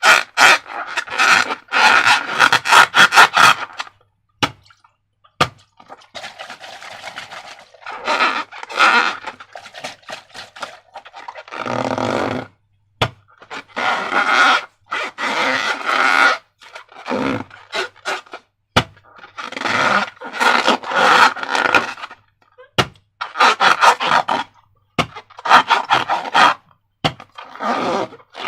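Slime being squeezed and worked by hand, giving bursts of rapid wet clicking and crackling with short pauses between them.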